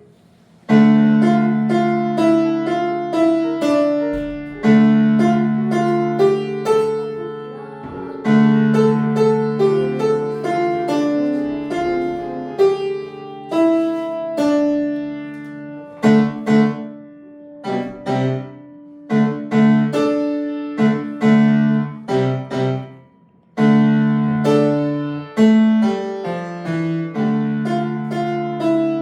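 A young child playing a piano solo: repeated low chords held under a simple melody. Partway through the chords drop out for short, separate notes, with a brief pause before the full chords come back.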